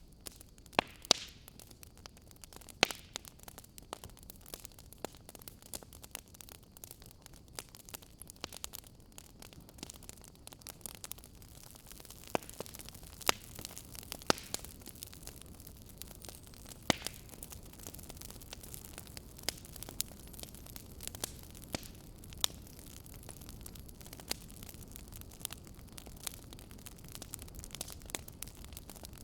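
Campfire burning with a steady low hiss and irregular sharp crackles and pops of the burning wood.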